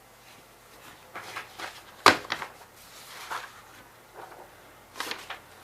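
Short scratchy strokes of a drawing tool on paper, with one sharp knock about two seconds in.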